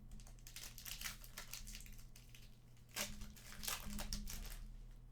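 Trading-card pack wrappers crinkling and tearing as packs are opened and handled, in two spells of crackling, the second starting about three seconds in. A steady low electrical hum lies underneath.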